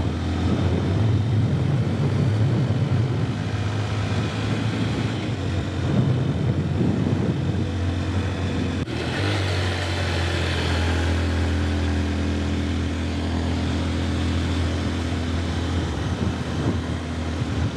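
150cc motorcycle engine running steadily at road speed, with wind rushing past, and a short dip in the sound about halfway through.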